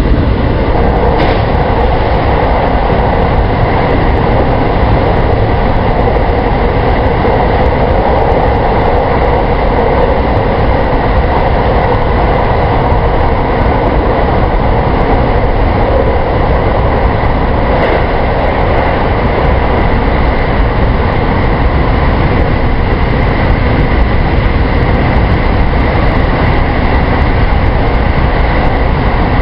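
JR West 223 series electric multiple unit running steadily at speed: an even rumble of wheels on rail and running noise heard from inside the front of the train, with a brief click about a second in and another around 18 seconds.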